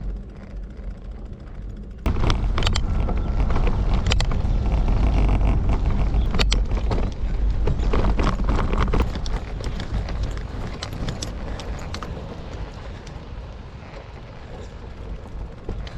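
Wind rushing over the microphone and tyre noise from a moving bicycle, with scattered clicks and rattles. The rushing jumps up suddenly about two seconds in and slowly eases off.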